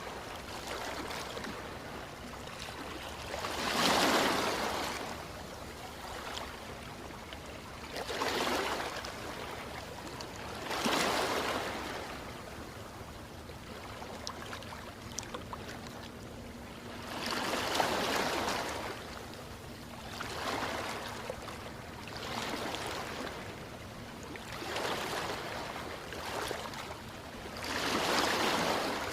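Ocean waves washing in, over a steady hiss of water. The swells come every few seconds, each rising and fading over a second or two, and the waves near the start and the end are the loudest.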